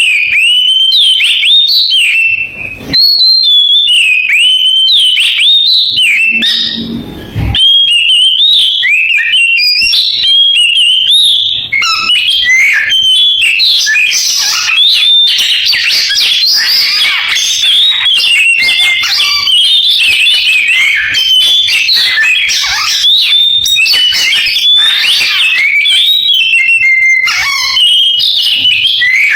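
Oriental magpie-robin (kacer) singing a loud, continuous song of quick whistled and chirped phrases, which becomes denser about halfway through.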